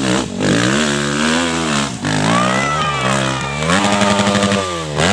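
Small engines, likely off-road motorcycles, revving hard: the pitch rises and falls several times and holds high between the swells.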